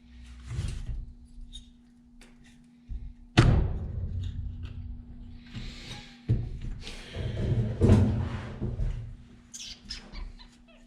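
Knocks, thunks and rattling of tools and chainsaw parts being handled on a workbench, with three sharper knocks about 3.5, 6 and 8 seconds in, over a steady low hum.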